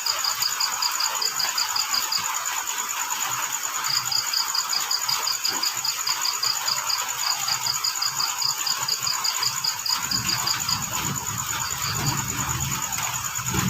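Crickets chirping: one sings a fast pulsed trill that pauses twice, over steady higher-pitched insect trilling and the even hiss of rain. A low rumble joins about ten seconds in.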